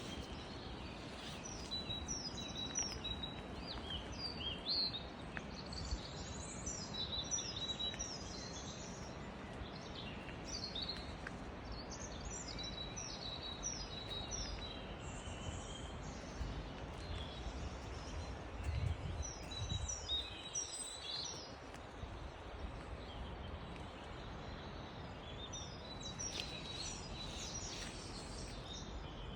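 Wild birds singing outdoors, with phrases of quick, high chirping notes that come in bursts every few seconds over a steady background hiss. A brief low rumble comes about two-thirds of the way in.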